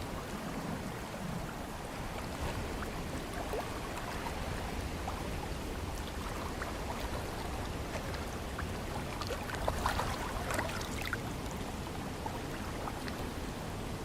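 Ocean waves and breeze: a steady wash of water and wind noise, with a brief swell of fizzing crackle about ten seconds in.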